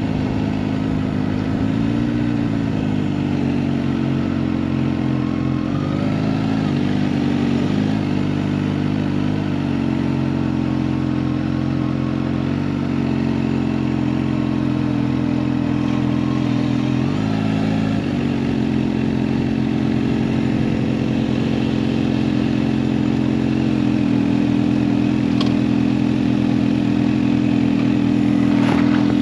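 Kawasaki Ninja H2 SX's supercharged inline-four running at low speed and near idle, heard from the bike. Its note dips and comes back up a few times as the throttle is eased off and on.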